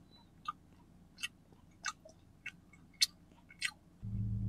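Close-up mouth sounds of a man chewing a bite of soft durian steamed cake: a series of six short wet clicks, about one every two-thirds of a second. Near the end a steady low hum starts.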